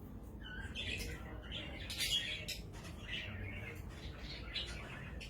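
A parrot calling in a string of short, high calls, loudest about two seconds in.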